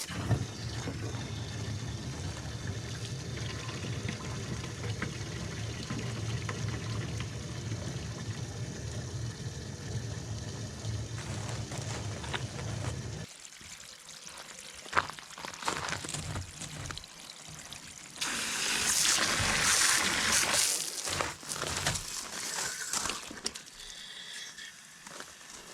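Liquid pouring and trickling while fuel-system parts are washed clear of old gasoline gone to varnish. A steady low hum runs through roughly the first half, then scattered clicks. A loud spraying hiss of a few seconds comes about two-thirds of the way in.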